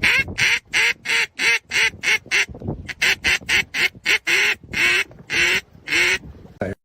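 Duck call blown in a long string of quacks, about three a second, each falling in pitch, calling to a duck; it cuts off abruptly near the end.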